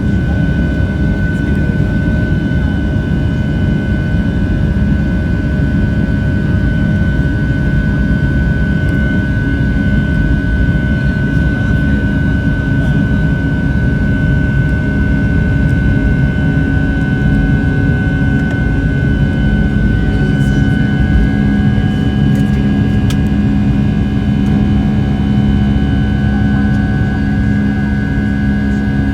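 Boeing 757 jet engines at high thrust heard from inside the passenger cabin: a loud, steady rumble with a constant high whine. The engine tone shifts slightly about two-thirds of the way through.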